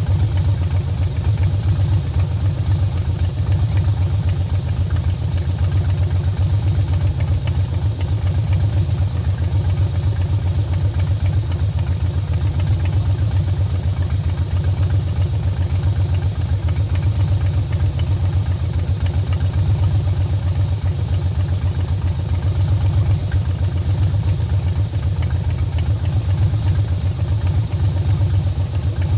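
2009 Harley-Davidson Softail Deluxe's Twin Cam 96B V-twin idling steadily through a Bassani Turnout Pro Street exhaust, with an even, low-pitched idle and no revving.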